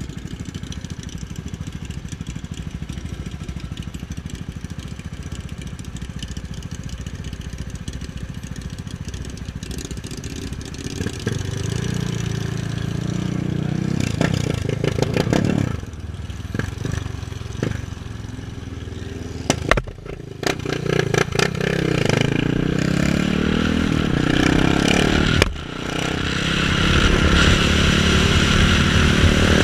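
KTM 690 Duke's single-cylinder engine running low and steady, then pulling away and accelerating through the gears, its pitch rising and then dropping at each shift, three times in the second half.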